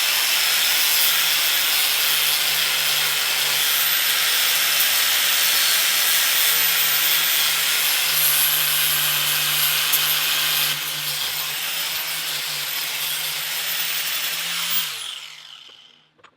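Angle grinder with a Pferd curve disc grinding rust off steel railroad spikes: a steady, loud grinding hiss over the motor's hum. The grinding eases a little about eleven seconds in, and near the end the motor winds down to a stop.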